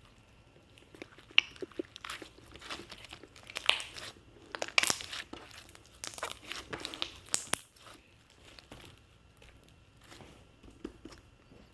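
Close crunching and crinkling, a quick run of sharp crackles that is busiest in the middle seconds, then thins to a few faint clicks after about eight seconds.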